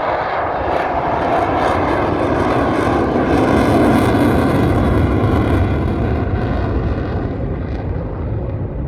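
Eurofighter Typhoon's jet engines running loud as the fighter flies past. The roar swells to a peak about four seconds in, then slowly fades.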